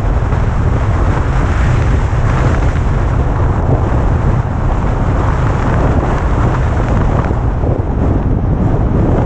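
Wind buffeting the microphone of a moving vehicle's camera: a loud, steady, churning low rumble with a hiss above it that drowns out other sound.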